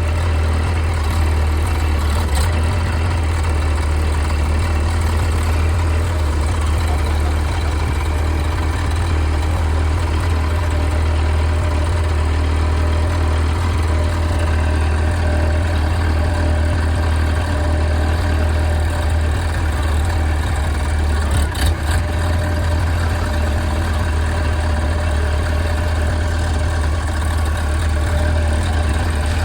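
Mini backhoe loader's engine running steadily with a deep, even hum, with one brief knock about three-quarters of the way through.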